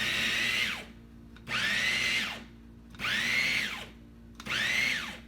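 Wancle 350 W electric food chopper pulsed in short bursts while chopping celery: its motor whines up and winds back down with each press. One burst ends about a second in, then three more follow, each a little under a second long and about one every second and a half.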